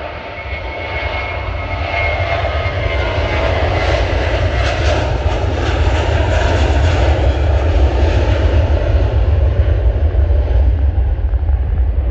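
Airbus A321-231's IAE V2500 turbofans at takeoff thrust: a loud, steady jet roar over a deep rumble, growing louder through the first half and loudest about two-thirds of the way in before easing slightly.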